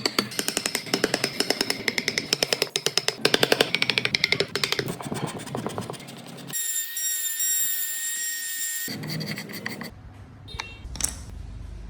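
Workshop tool sounds: a fast, even run of tapping or cutting strokes for the first few seconds, then a small power tool whining steadily for about two seconds before cutting off, followed by a few light clicks.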